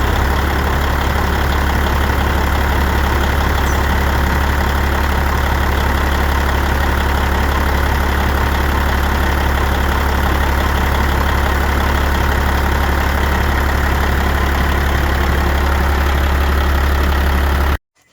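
Peterbilt 379 semi-truck's diesel engine idling steadily, a loud low hum with a constant noisy wash over it; the sound cuts off suddenly near the end.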